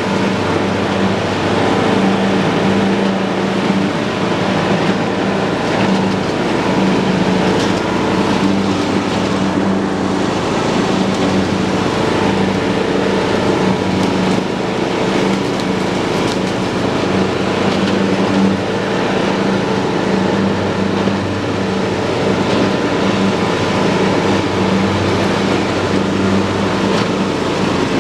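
John Deere lawn tractor's engine running at a steady speed with the mower deck cutting grass; an even, unbroken engine sound.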